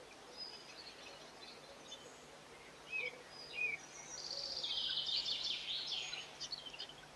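Garden songbirds calling: a few short separate chirps, then about four seconds in a fast twittering run of notes lasting a couple of seconds.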